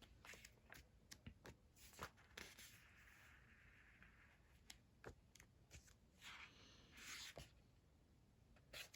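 Faint rustling of paper and soft ticks as the pages of a sticker book are turned over, in near silence.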